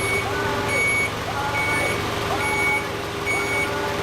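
A vehicle's reversing alarm beeping at a steady pace, a little faster than once a second, with a lower warning tone sliding up and down between the beeps over a steady engine hum.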